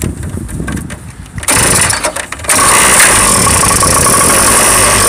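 Small motorcycle engine being started: it turns over unevenly, then catches about two and a half seconds in and keeps running steadily with a high whine.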